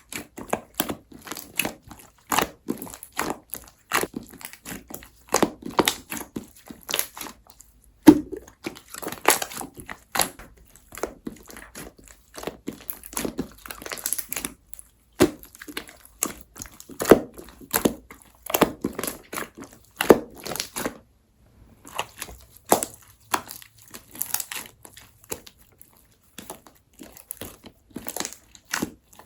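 Pearl-pigment slime being squished and pressed by hand: irregular sticky clicks and crackles, one after another, with a brief pause about twenty seconds in.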